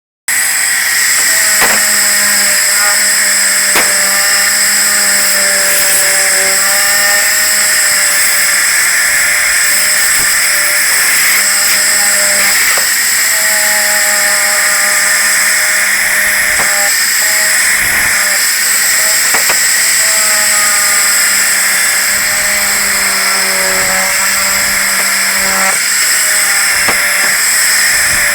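A workshop power tool running steadily with a high whine, its pitch wavering now and then as it meets load.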